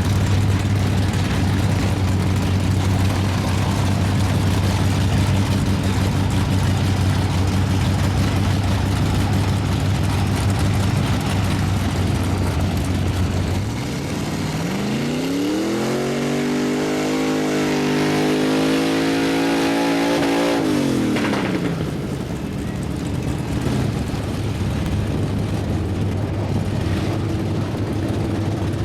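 Big mud truck engine running steadily, then revving up about halfway through, held at high revs for about six seconds, and dropping back down.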